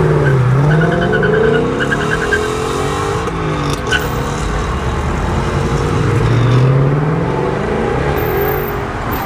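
Car engines revving and accelerating, the pitch falling and rising several times, with a short sharp click about four seconds in.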